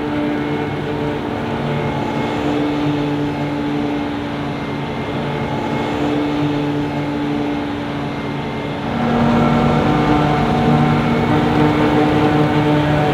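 Heavy farm machinery engines running steadily. About two-thirds of the way through the sound changes abruptly to a louder, different engine note.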